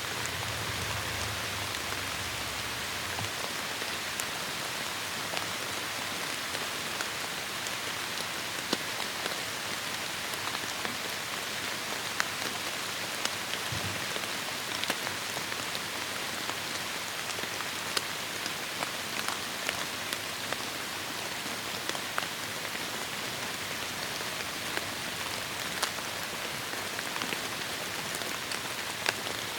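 Heavy rain falling steadily in a forest, a dense even hiss with many individual drops ticking sharply. A brief low rumble sits under it in the first three seconds.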